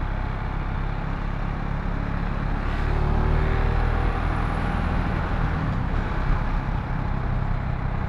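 KTM Duke 690 single-cylinder motorcycle engine running while riding in traffic, with heavy wind and road rush on the microphone. The engine picks up a little about three seconds in.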